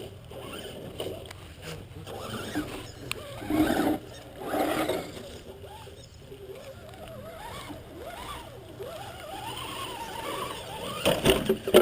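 Electric motor of a battery-powered radio-controlled truck running, its whine rising and falling with the throttle, with two louder rough bursts about three and a half and five seconds in.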